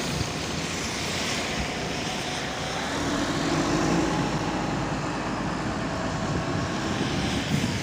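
MAZ-203 city bus running, heard from inside the passenger cabin: a steady engine and drivetrain drone with tyre noise, and a whine that grows louder and shifts in pitch about three to four seconds in as the bus pulls harder.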